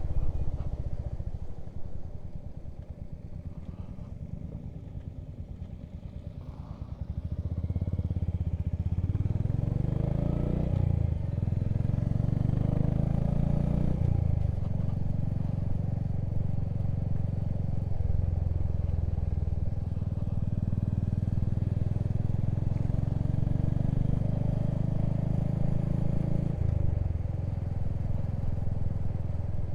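Motorcycle engine running quietly at low revs, then pulling away about seven seconds in. The revs rise and drop back twice as it shifts up through the gears, then it runs steadily at cruising speed.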